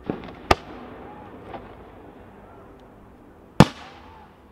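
Aerial firework shells bursting: a soft boom right at the start, a sharp bang about half a second in, a fainter one around a second and a half, and the loudest bang about three and a half seconds in, trailing off briefly.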